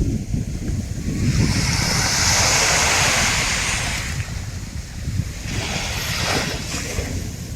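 Surf breaking and washing up a sandy beach. One long surge of hiss swells about a second in and dies away by four seconds, and a shorter one follows near six seconds, over a steady low rumble.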